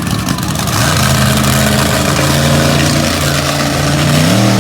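Monster truck engine running hard. Its pitch holds fairly steady, then climbs about four seconds in.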